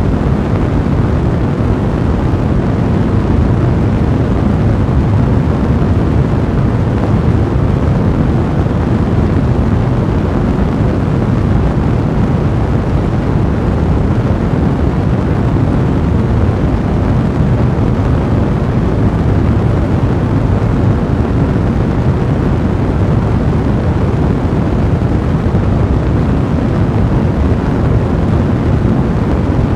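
A fire burning with a steady, dense low rumble that holds even throughout.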